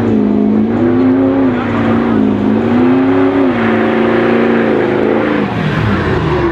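Car engine revving hard and held at high revs, its pitch wavering up and down, then dropping off near the end as the revs fall.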